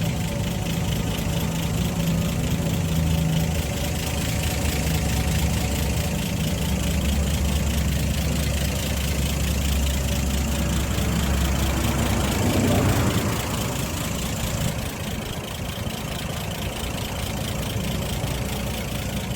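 A car engine idling steadily, with a brief rise about two-thirds of the way through.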